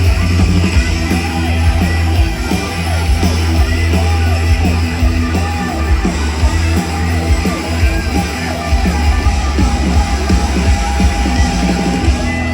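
A live band plays loud rock music with heavy bass and guitar, heard through the concert PA, while many crowd voices rise over it.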